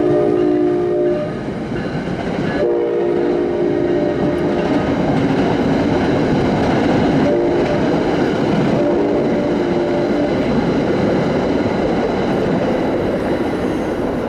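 NJ Transit ALP-45DP locomotive's multi-note air horn blowing in the long-long-short-long pattern of a grade-crossing signal: the end of one long blast about a second in, a long blast, a short toot and a final long blast. Underneath, the passing train's wheels clatter and rumble steadily on the rails.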